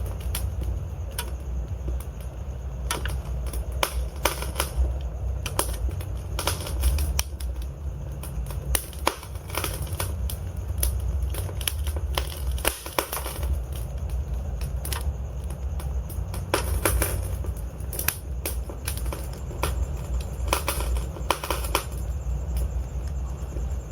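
Wood fire in a fireplace burning steadily, with a low rumble of flames and frequent irregular crackles and pops from the burning logs.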